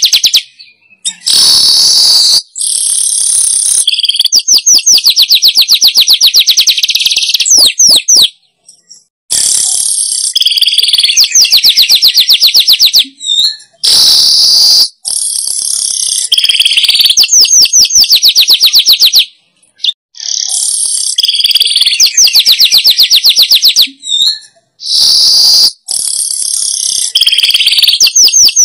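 Weaver (manyar) song played loud as a bird-lure recording. The same phrase repeats about five times with short breaks: a harsh buzzy hiss, then a fast chattering run of ticks lasting a few seconds.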